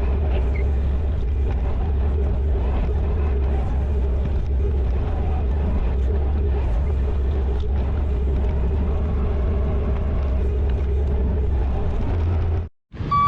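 Diesel engine of a compact machine (skid steer or compact tractor) running steadily at working speed, heard close up with a deep, even hum. The sound cuts off suddenly near the end.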